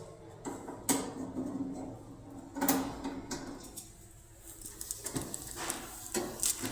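Scattered clicks and light clinks of hard objects being handled, over a faint hum.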